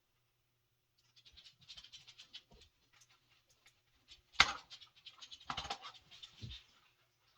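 Scratchy rustling and small clicks of electrical wires and small parts being handled while a ceiling fan's remote-control receiver is wired, with one sharp click about four and a half seconds in.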